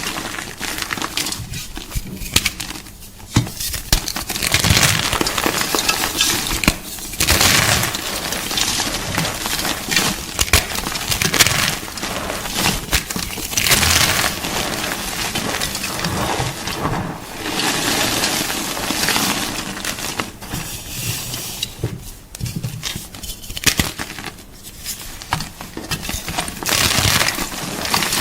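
Gym chalk crunching and crumbling in dense crackles and sharp snaps, in bursts of a few seconds with short quieter pauses.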